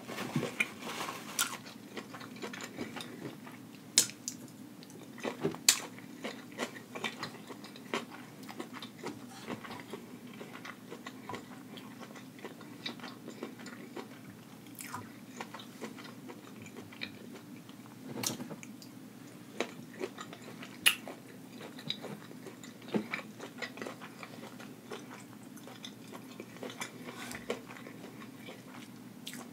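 Close-miked chewing and biting of a sauce-drenched seafood boil: wet mouth smacks and sharp clicks at an uneven pace, over a steady low hum.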